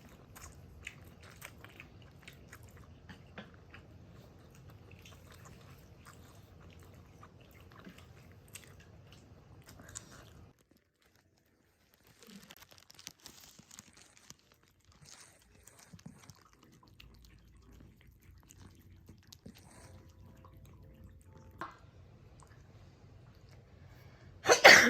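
A cat chewing: a run of small, irregular crunching clicks that breaks off briefly partway through. A short, loud noise comes near the end.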